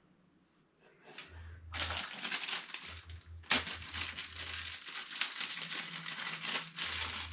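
Dense crinkling and rustling with many small clicks, starting about two seconds in, and a low hum that comes and goes.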